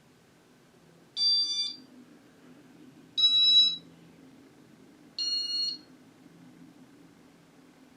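Three electronic beeps, each about half a second long and about two seconds apart, made of several high steady tones sounding together. The pitch differs a little from beep to beep. Under them runs a faint steady low hum.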